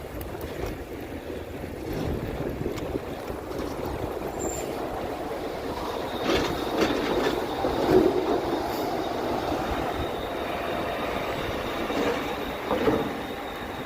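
Rumble and rattle of a bike ridden along a road, with a few sharp knocks and clatters around the middle and near the end, and a thin steady high whine in the second half.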